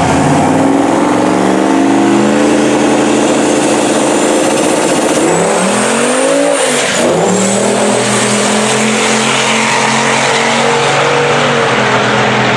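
Turbocharged 5.3 LS V8 in a Volvo sedan at full throttle down a drag strip. The engine note climbs and drops sharply about seven seconds in, then carries on steady as the car pulls away.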